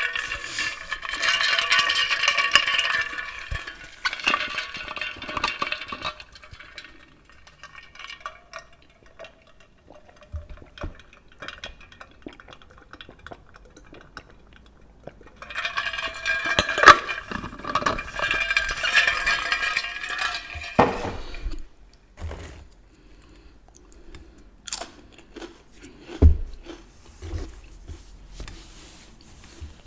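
Clinking of dishes and utensils during a chips-and-dip eating session, with two louder stretches of a few seconds each and scattered small clicks in between.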